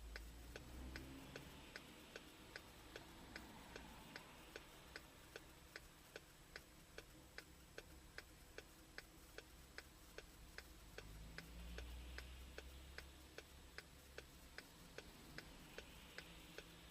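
Near silence with faint, evenly spaced ticking, about three ticks a second, and a faint low rumble twice.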